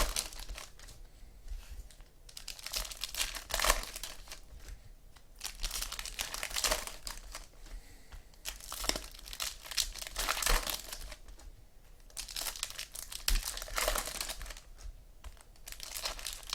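Trading-card pack wrappers crinkling and tearing as packs are opened and the cards handled, in irregular bursts every second or two.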